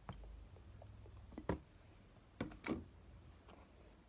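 Faint handling sounds from mixing slime: four soft knocks or clicks, as of a stirring utensil or container, spread through the moment just after borax solution is added.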